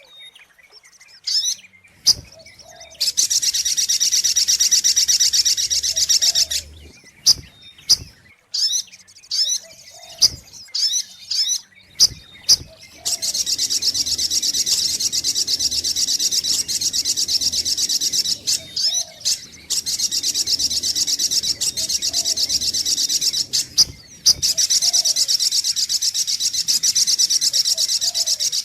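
Little spiderhunter (sogok ontong) song on a bird-lure recording: long, very rapid trains of high chipping notes lasting several seconds each, three times, with short sharp calls and clicks in the gaps between them.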